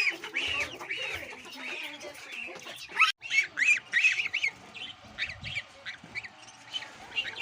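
Birds calling in a run of short, arched calls, two or three a second. A brief dropout about three seconds in, after which the calls carry on more faintly.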